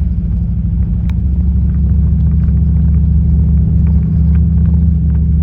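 Pontiac Grand Prix GXP's V8 engine running, a steady low rumble as the car gets going.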